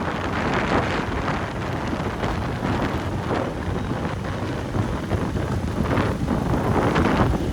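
Wind buffeting the microphone on a moving motorbike, a heavy, gusting rumble. The bike's running is buried in the wind noise.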